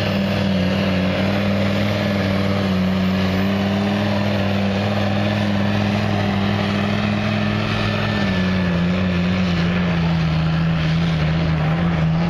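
14-litre Mercedes-Benz V10 turbo diesel engine of a pulling tractor running at a steady speed, its pitch dropping a little about eight seconds in.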